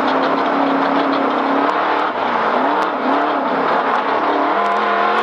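Race vehicle's engine running at speed, its pitch held steady, then dipping and rising twice in the middle and settling lower near the end as the throttle is eased and reapplied, over a steady rush of tyre and road noise on a rough dirt course.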